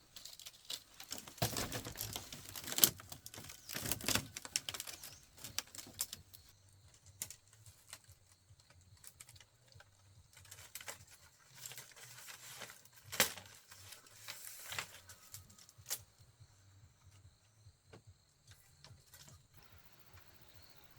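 Hand work on bamboo: irregular clicks, taps and cracks, busiest in the first six seconds and sparser after. A steady high insect chirr runs behind from about six seconds in.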